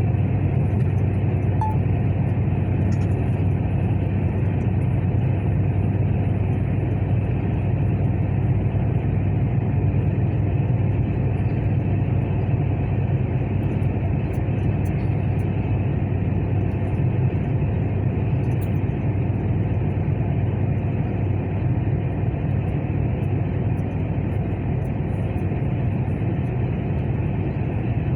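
Truck engine running with a steady low drone that does not rise or fall.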